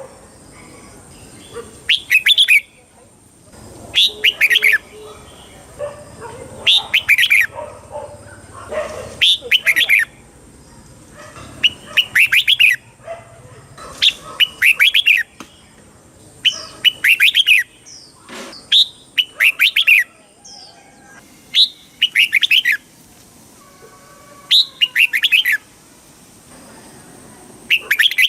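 Red-whiskered bulbul song: short, bright phrases of quick up-and-down notes, repeated about every two seconds, some phrases coming in quick pairs.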